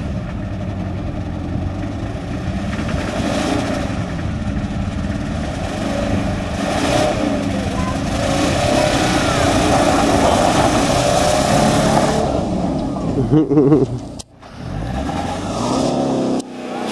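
4x4's engine running and revving unevenly after gulping water into the engine. It grows louder through the middle, drops out sharply for a moment about fourteen seconds in, then runs again.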